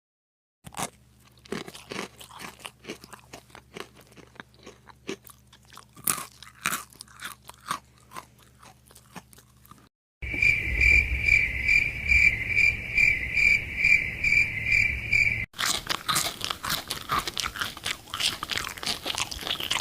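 Crisp crunching of an apple being bitten and chewed close to the microphone, in separate runs of sharp crunches. About halfway through, the crunching gives way for several seconds to a steady high-pitched tone pulsing about two or three times a second over a low rumble, before dense chewing crunches resume.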